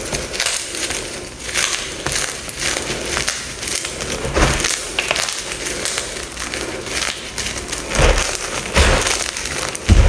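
Dyed gym chalk blocks being crushed, a steady crisp crackling with several louder crunches, the loudest near the end.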